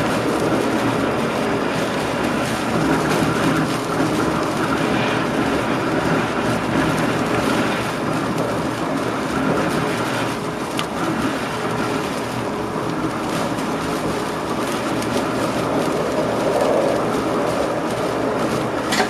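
Passenger train running along the line, heard from inside the driver's cab: a steady rumble of wheels on the rails with a low hum, and a sharp click near the end.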